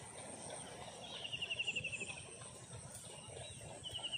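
A bird calling with a rapid trill of quick pulses that falls slightly in pitch, twice, each about a second long: once about a second in and again near the end.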